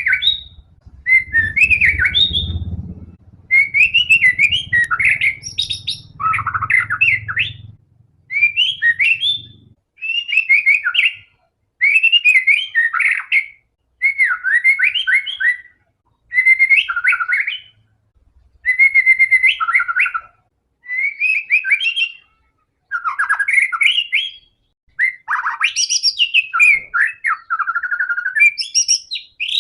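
White-rumped shama (murai batu) in full, vigorous song: a run of loud, varied whistled phrases with rapid trills and pitch sweeps. Each phrase lasts a second or two, with short pauses between. This is the kind of song used as a lure to set other shamas singing.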